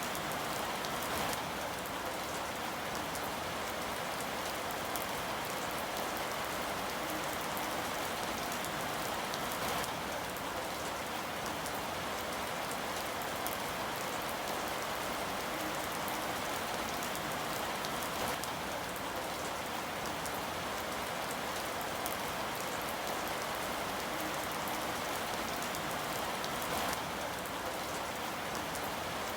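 Steady rain falling, an even hiss of rain on a surface with scattered individual drops.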